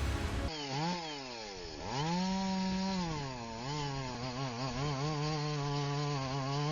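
Two-stroke chainsaw engine revving up and down as the throttle is worked, its pitch rising and falling several times and wavering near the end.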